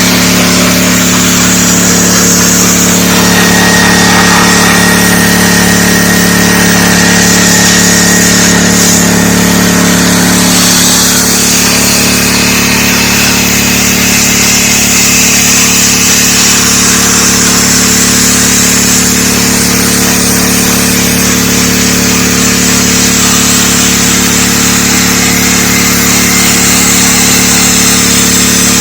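Gas engine of a DeWalt 3600 psi pressure washer running steadily, with the hiss of the high-pressure water spray rising and falling as the spray is worked over the surface.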